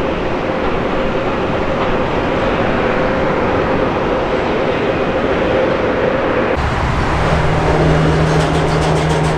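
Loud, steady jet airliner engine noise with a steady whine. About two-thirds of the way through it changes abruptly to a lower, steady engine hum.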